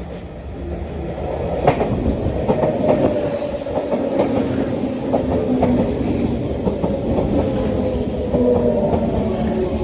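Sotetsu 8000 series electric train with a Hitachi GTO-VVVF inverter drive arriving at a station. Wheels clack over the rail joints under the humming whine of the inverter and traction motors. It grows louder over the first couple of seconds, and the whine's pitch falls slightly near the end as the train slows.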